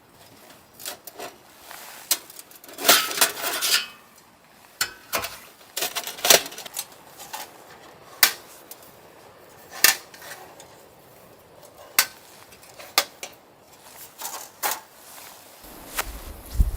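Irregular clinks and knocks of hard objects being handled, spaced a second or two apart, with a cluster of louder ones about three seconds in. Near the end a low wind rumble on the microphone sets in.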